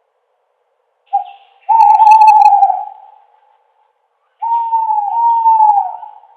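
Owl hooting: a short note about a second in, then a long, held hoot, and near the end a second call whose pitch wavers and falls away.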